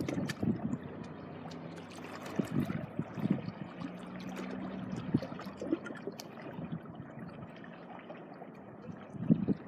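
Small sea waves washing and trickling on a beach. Wind gusts on the microphone near the start and again near the end.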